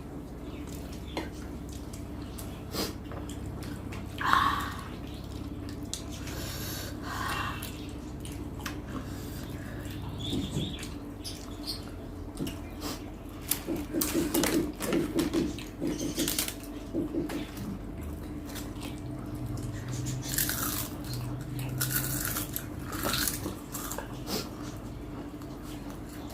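Close-up eating sounds: wet chewing, lip smacks and scattered clicks as rice and curry are mixed and eaten by hand, over a steady low hum.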